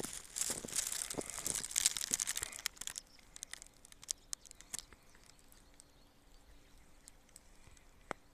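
Footsteps crunching underfoot in a dense, crackly run that stops about three seconds in, leaving only a few scattered ticks.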